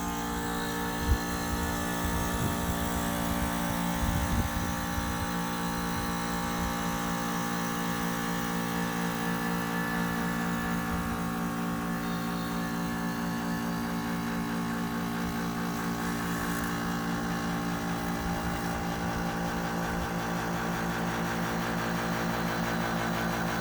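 HVAC compressor running with a steady squeal over a hum that does not change.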